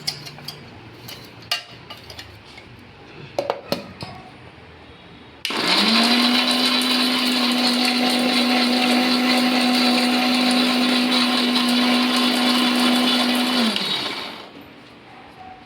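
Electric kitchen mixer grinder grinding a mix of nuts, raisins and fox nuts into powder. A few clicks and knocks as the jar is handled, then about eight seconds of loud, steady motor whine starting about five seconds in, winding down near the end.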